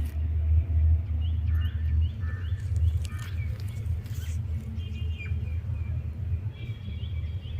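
Small birds chirping in short rising notes, several in quick series, over a steady low rumble.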